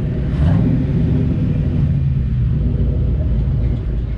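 A car engine running steadily, its sound sitting low, with a slight swell about half a second in.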